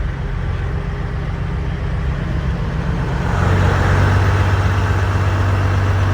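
Diesel semi-truck engines running, one growing louder about three seconds in as it draws near.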